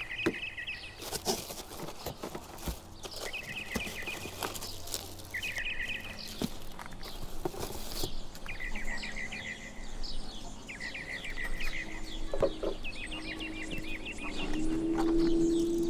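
A bird calling in short trilled phrases, one about every two seconds, over scattered clicks and rustles of packaging being handled. A low steady hum comes in near the end.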